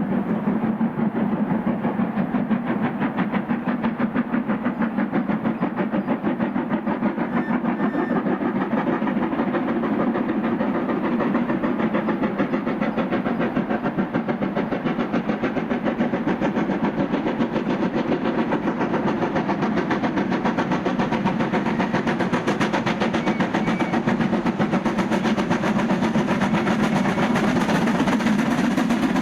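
Steam train running steadily, with a fast, even pulsing that continues without a break.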